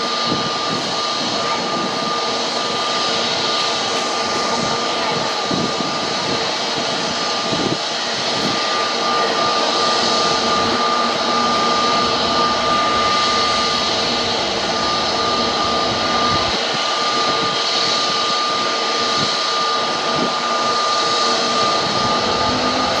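Airbus A350-900's Rolls-Royce Trent XWB turbofan engines running: a steady rushing noise with a high whine held on one pitch, growing a little louder about eight seconds in.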